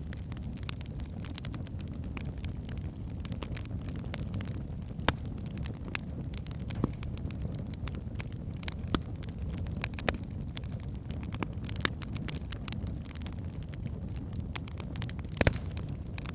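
Wood fire burning in a fireplace: a steady low rumble of flames with scattered sharp crackles and pops from the logs, a loud pop about fifteen seconds in.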